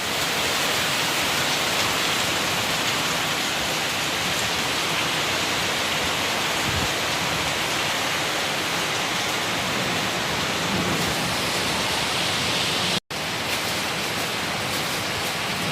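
Heavy storm rain pouring down steadily, a dense even hiss. The sound cuts out for an instant about thirteen seconds in.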